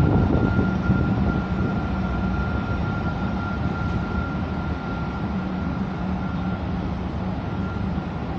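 Steady running noise of a moving vehicle, with a low hum and a faint, steady high whine, a little louder in the first second.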